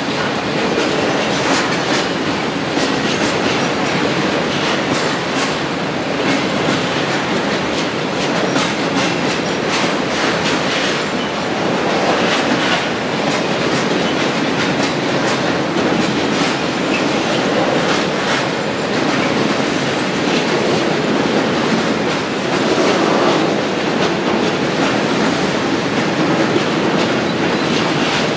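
Freight train of tank wagons rolling past at speed: a steady, loud rumble of steel wheels on rail, with rapid clicks as the wheels cross the rail joints.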